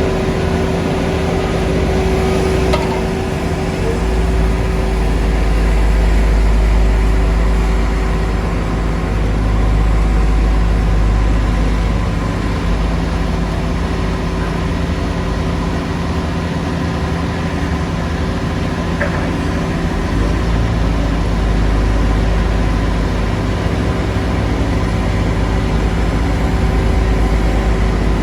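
Heavy construction machinery's diesel engine running steadily, its deep rumble swelling and easing a few times as it works.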